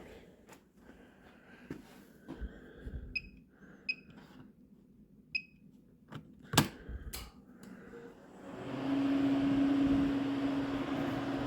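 Scattered handling clicks and three short high beeps, then a sharp click; about eight and a half seconds in, the Modine gas unit heater's fan motor starts up and runs with a steady hum as the heater is switched on.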